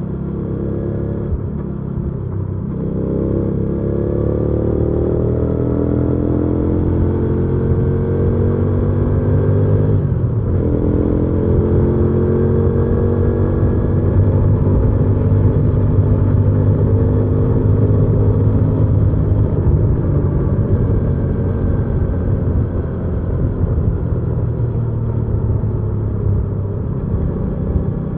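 Hyosung GV300S Aquila 300's V-twin engine and exhaust under way. Its pitch climbs as it accelerates, with two upshifts, one about two and a half seconds in and one about ten seconds in, and it then settles into a steady cruise.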